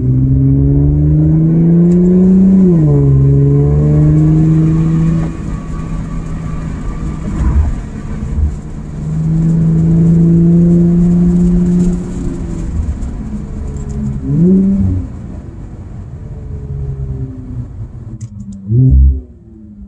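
Infiniti Q50's turbocharged engine pulling hard through a Rev9 catback midsection and PLM axle-back exhaust with no resonators, heard from inside the cabin. The note climbs and drops at an upshift about three seconds in, pulls again for a few seconds midway, then eases off with a couple of short revs near the end. The tone is clean, with no rasp.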